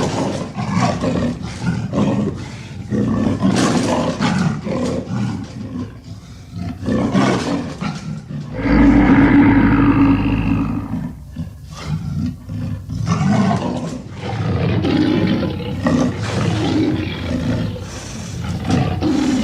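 Monster vocal effects made from big cat, wild boar and grizzly bear recordings: a run of short snarls and growls, with one long, loud roar about nine seconds in, then more snarling.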